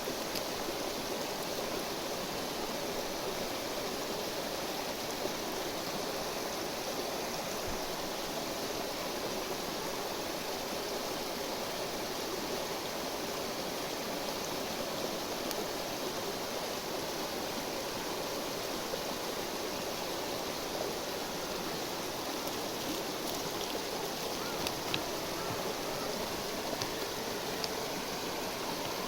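A flowing river rushes steadily, with a few faint short ticks now and then.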